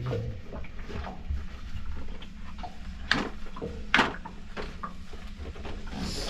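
Scattered clicks and knocks of things being handled in a small enclosed space, with two sharper clicks about three and four seconds in, over a steady low hum.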